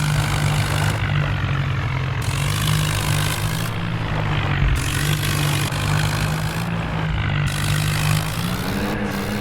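Diesel vehicle engine running steadily under a constant low drone, its pitch rising a little near the end.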